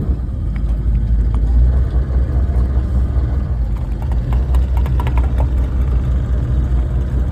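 Speedboat engine running with a steady low rumble.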